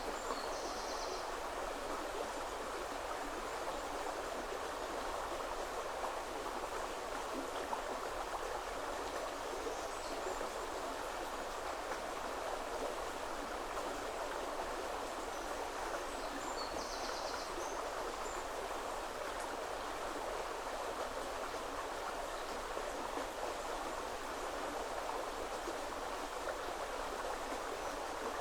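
River water rushing steadily over stones, an even flowing noise. A bird chirps briefly and high twice, about a second in and again about seventeen seconds in.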